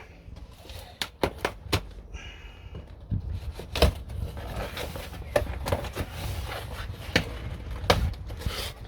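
A large cardboard parcel being opened by hand: a series of sharp knocks and clicks from the box and its contents being handled, with a short tearing scrape about two seconds in.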